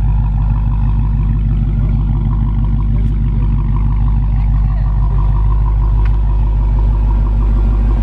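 Dodge Challenger SRT Hellcat's supercharged 6.2-litre HEMI V8 idling steadily, heard at the exhaust tips.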